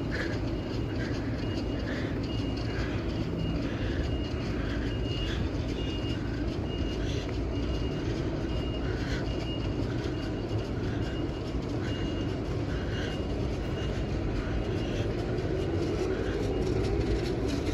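Steady rumble of electric train traffic on a main-line railway, with a faint high beep repeating about twice a second through most of it.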